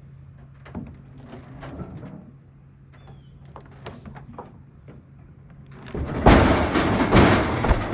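Pine logs being rolled off a trailer deck with a cant hook: scattered knocks and clunks as logs are shifted, then about six seconds in a loud, two-second rumbling tumble of logs rolling off and thudding to the ground.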